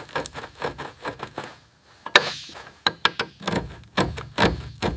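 Workshop clatter: a run of irregular knocks, taps and clanks, with a brief hiss about two seconds in and heavier knocks in the second half.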